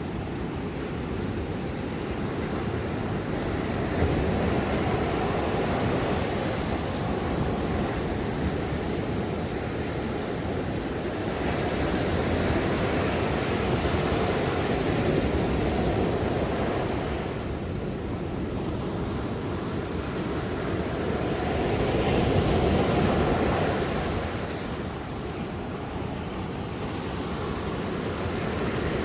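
Ocean waves breaking and washing on a shore, a continuous rush that swells and eases with each wave, the strongest surges about four, twelve and twenty-two seconds in.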